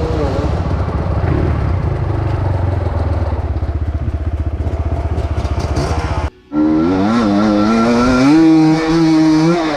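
Enduro motorcycle engine running with a fast, low pulsing beat. After a short break about six seconds in, a higher engine note comes in and wavers up and down in pitch as the throttle is worked.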